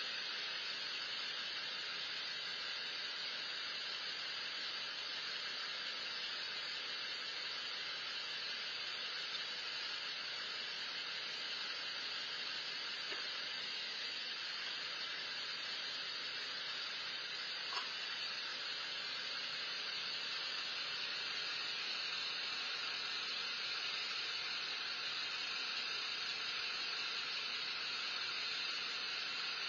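Steady, even hiss with no distinct events, like a recording's background noise, and one faint click about two-thirds of the way through.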